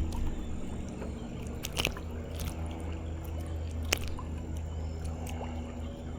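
Water sloshing and lapping around a canoe over a steady low rumble, with a few sharp clicks and knocks, the loudest about four seconds in.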